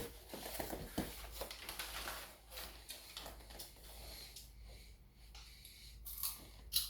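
Quiet, scattered light taps, clicks and rustling from toy figures being handled and moved about.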